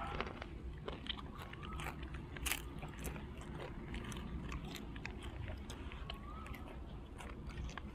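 Close-up chewing and biting of crisp fried dried squid: irregular crunching clicks as it is bitten and chewed.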